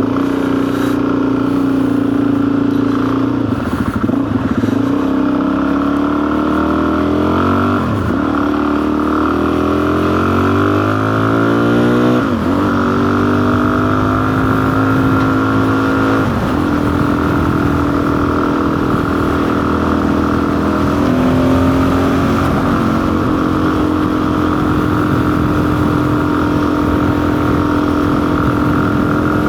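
Motorcycle engine pulling away and accelerating, heard from the rider's seat. The pitch climbs and drops back at each of several upshifts in the first twenty seconds, then holds steady at cruising speed.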